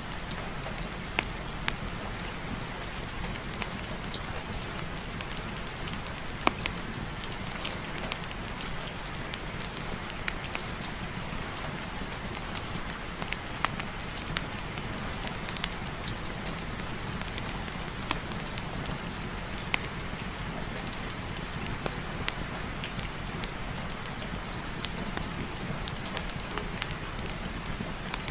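Steady rain hiss mixed with a crackling fireplace fire: an even wash of noise broken by scattered sharp pops and crackles.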